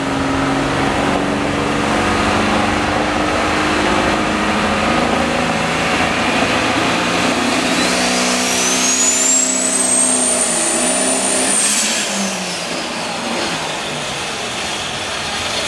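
Caterpillar 3406 diesel of a Peterbilt pulling truck running hard under load during a sled pull. A high turbocharger whine climbs in pitch through the middle, then falls away near the end as the engine eases off.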